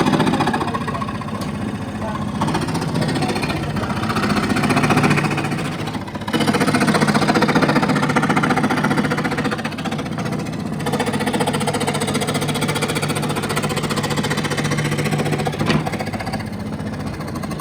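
Electric woodworking power tool running with a rapid buzzing hum, easing briefly about two, six and ten seconds in as it works the wood.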